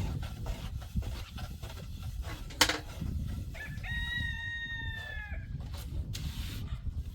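A single long, pitched animal call, held for about two seconds and dipping at the end, starting about halfway through. A sharp knock comes shortly before it, and a steady low rumble runs underneath.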